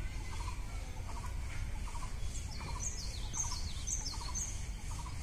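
Birds calling among the trees: a short stuttering call of three or four quick notes repeats about twice a second, and from about halfway through a series of five high, falling calls comes about half a second apart. A low, steady rumble lies underneath.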